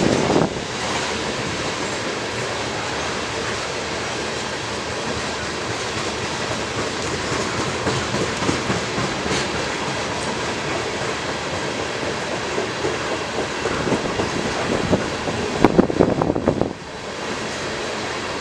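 Train cars rolling past on the mainline, steel wheels clattering over the rails in a steady rumble. A louder stretch comes near the end, then the sound eases off a little.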